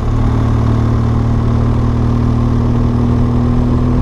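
BMW R1200GS boxer-twin engine running steadily under way on the open road, its pitch creeping slightly higher as the bike gathers speed.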